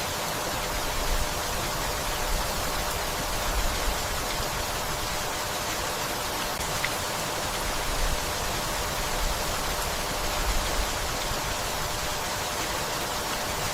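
Steady rain falling on leaves and a wooden house: an even, continuous hiss with brief low rumbles every second or two.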